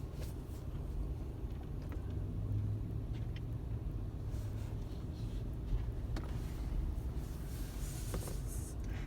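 Car engine idling, a steady low rumble heard from inside the car, with a few light clicks and a brief hiss near the end.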